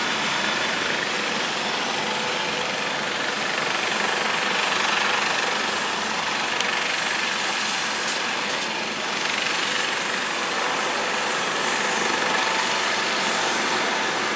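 Eurocopter AS 365N3 Dauphin twin-turbine helicopter running, its engines and rotors making a steady, loud rush of noise that barely changes in level.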